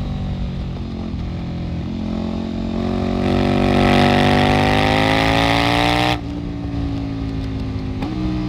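KTM 1290 Super Duke R's V-twin engine running at a steady low speed, then revving in a slow, steady climb of pitch from about three seconds in. The revs fall away suddenly about six seconds in, followed by a short blip near the end.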